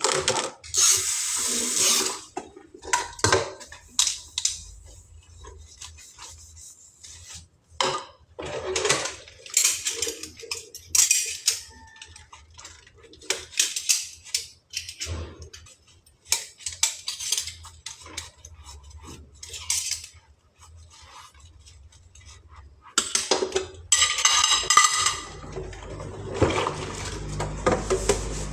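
Kitchen utensils and cookware clattering and scraping in irregular bursts, with a longer, louder stretch of scraping and rattling near the end.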